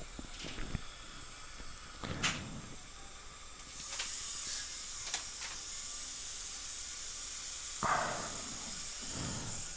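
High-speed dental handpiece running with a steady high hiss and whine for about five seconds, starting about four seconds in. A few sharp clicks of metal instruments come before it.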